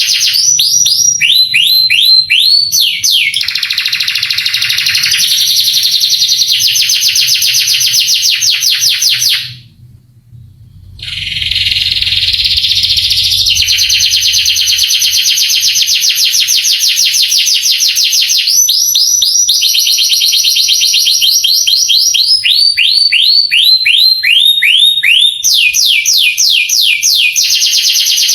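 Male domestic canary singing a long song of rapid trills, each run of quickly repeated notes switching to a new pitch every second or two. The song breaks off for about a second and a half about ten seconds in, then resumes.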